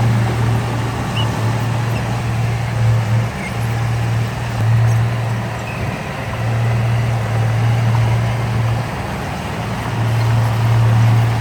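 Heavy diesel engine of earth-moving machinery running at a steady low pitch, its loudness swelling and easing over a constant rumble.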